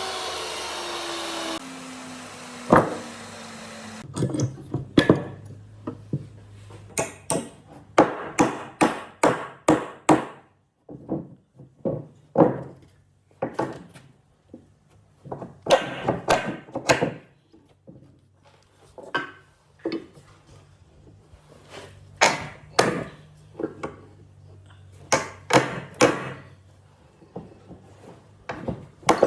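A power tool coasting to a stop with its pitch falling, then a long series of sharp hammer blows on wood in quick groups with short pauses between.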